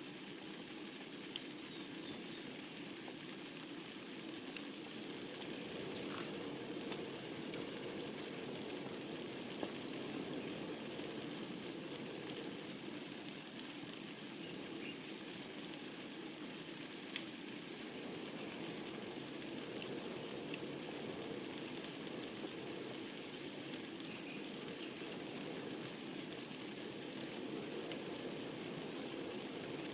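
Wood fire burning in a fireplace: a steady low rush of flames with sharp crackles and pops of burning logs at irregular intervals.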